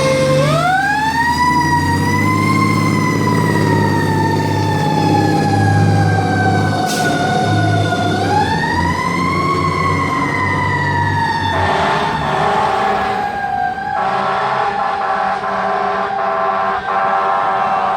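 Fire engine siren sounding while the truck responds, winding up in pitch, then slowly sliding down, then winding up a second time about halfway through, over the truck's low engine rumble. In the last few seconds a rushing noise passes and the tone settles steadier.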